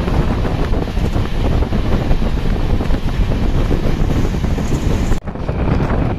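Running noise of a moving train, with heavy wind buffeting the microphone. About five seconds in it breaks off for an instant and resumes slightly changed.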